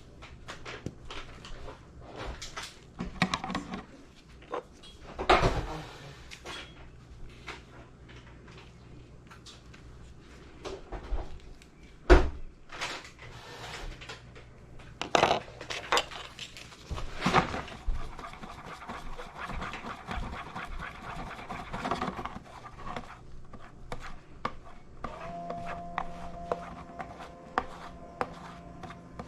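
Hands dispensing and working two-part epoxy plastic bonder: scattered clicks and knocks, one sharp knock about twelve seconds in, and a stretch of rubbing around twenty seconds in. A faint steady hum starts near the end.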